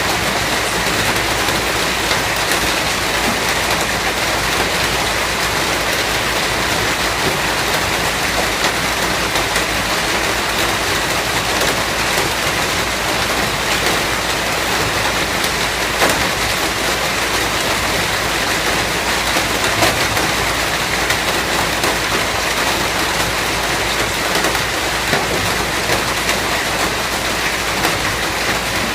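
Steady rainfall, an even hiss with scattered drop ticks on a surface.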